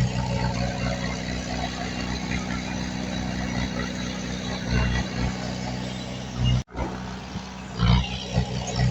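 Heavy diesel engine of earthmoving machinery running steadily, with a few louder surges about five and eight seconds in. The sound drops out briefly about two-thirds of the way through.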